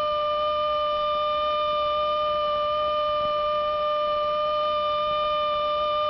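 A single steady pitched tone with overtones, held without a break or change in pitch.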